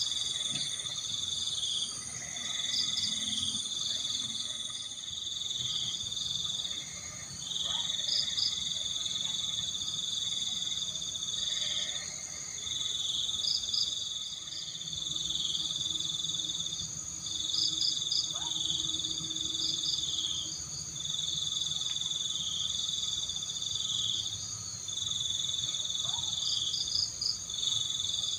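Night chorus of insects: several steady high-pitched trills layered together, one lower trill pausing briefly every couple of seconds, with short chirps now and then.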